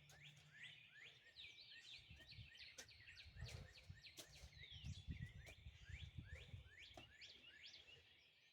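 Faint early-morning birdsong: many birds chirping with quick, repeated downward chirps, over a low uneven rumble.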